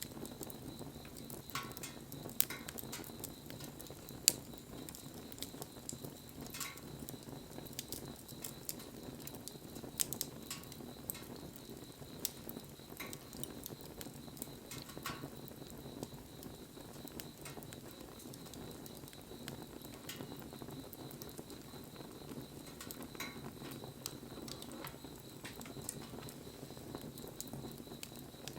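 Wood bonfire crackling steadily, with scattered sharp pops, the loudest about two and four seconds in.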